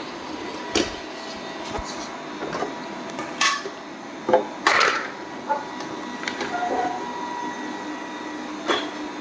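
Robot vacuum cleaner running with a steady hum and whine, with irregular knocks and clicks, the loudest about four to five seconds in.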